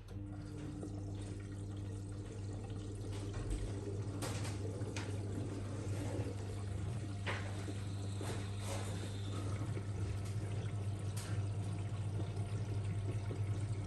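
Miele W1 washing machine starting a steady hum, with water rushing and pouring through it as its TwinDos maintenance programme flushes the cleaning agent through the dosing system.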